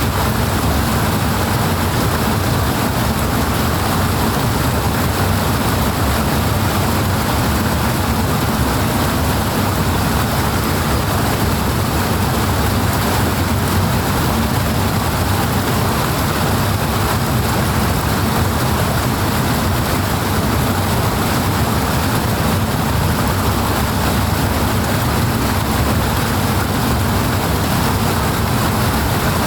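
Steady rushing water, a dense even noise heavy in the low end that does not change.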